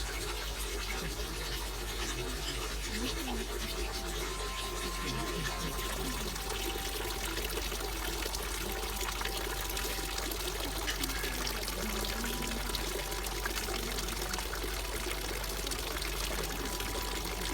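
Steady flow of water pouring and trickling into a hot-spring pool.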